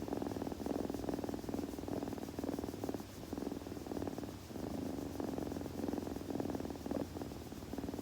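Kitten purring close to the microphone: a steady rapid rattle that swells and eases slightly every second or two.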